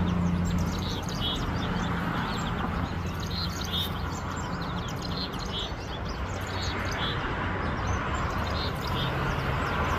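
Small birds chirping in short repeated calls over a steady low background hum.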